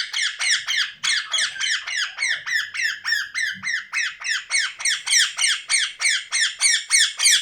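Pet parrot screeching in a rapid, steady string of short, piercing downward-sliding calls, about four a second.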